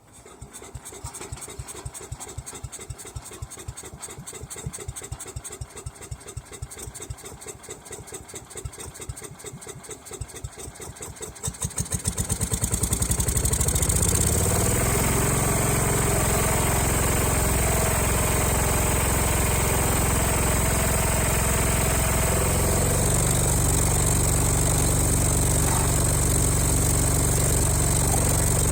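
Ford 100 garden tractor engine being cranked over by its key starter in a steady rhythm for about twelve seconds, then catching and settling into a steady run. It is a long-dormant engine coming back to life on freshly cleaned points and carburettor.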